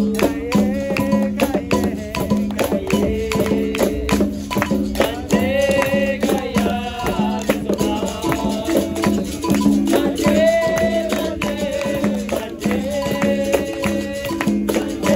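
Capoeira roda music: a steady rhythm of hand percussion and rattle hits over a constant low twanging tone, with voices singing a melodic line.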